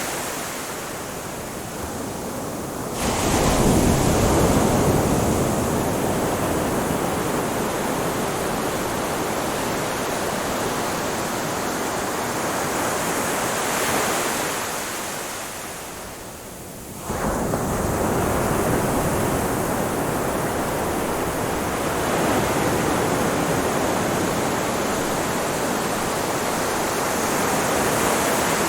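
Ocean waves washing onto a beach: a continuous rush of surf, with bigger waves breaking about three seconds in and again a little past halfway, each after a brief lull.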